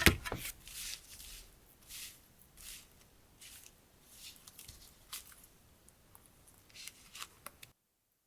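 Hands handling rolls of decorative tape and their packaging: a sharp clack at the start, then scattered light rustles and taps. The sound cuts off abruptly near the end.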